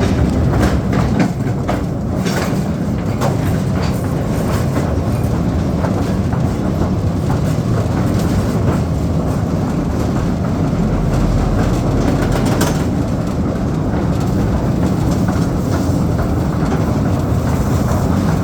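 Mine railway train running along its narrow track, a loud steady rumble with scattered sharp clicks from the wheels and wagons.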